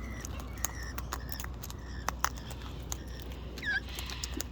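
Wild white cockatoo eating seed: irregular sharp clicks of its beak cracking and crunching seed, with one short falling squeak near the end.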